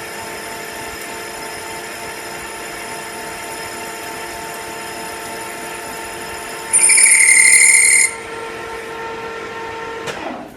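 Metal lathe running with a steady whine while a cutting tool takes a pass on a cold-rolled 1018 steel part. About seven seconds in, the cut gives a loud, high-pitched squeal for just over a second. The lathe's sound drops away just before the end.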